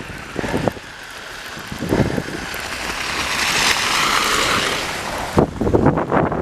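Wind rushing over the microphone of a bicycle-mounted camera, a steady hiss that swells about halfway through and then eases, with a few short knocks.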